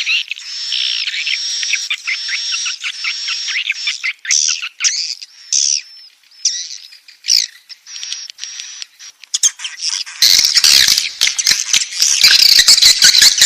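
Swiftlet chicks calling in the nest: a run of repeated high, buzzy chirps about two a second, thinning out in the middle, then from about ten seconds in a much louder, dense chattering rattle.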